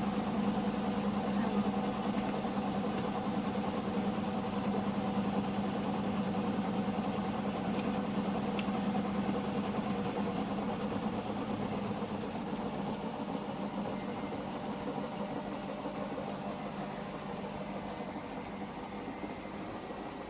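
Hotpoint washing machine running mid-cycle, a steady motor hum that gradually quietens through the second half.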